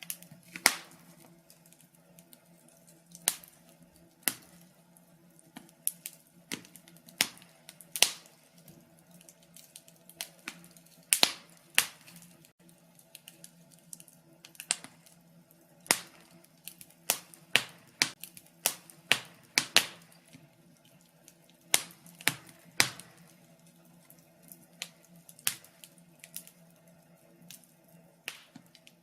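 Wood fire crackling in a fireplace: irregular sharp pops and snaps, some loud, over a faint steady low hum.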